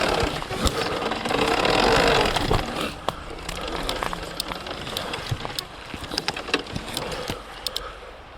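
Surron Ultra Bee electric dirt bike ridden over a wet, rooty forest trail. About the first three seconds are loud and noisy; after that it is quieter, with many sharp knocks and clicks from the bike jolting over the ground.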